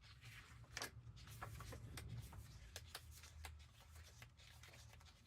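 Faint rustling and light flicks of paper as a stack of printed craft-kit pages is leafed through by hand, with a low steady hum underneath.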